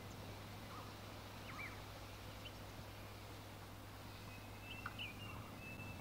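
Faint outdoor ambience with a few brief bird chirps scattered through it, a small cluster of them near the end, over a steady hiss and a thin, steady high tone.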